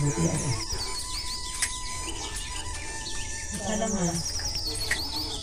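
Small birds chirping in a quick, repeated series of high, falling notes, with brief low voices near the start and again about four seconds in.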